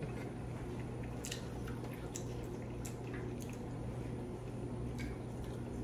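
Wet mouth clicks and smacks of people chewing saucy pasta and breadsticks, scattered sharp ticks at irregular moments over a steady low hum.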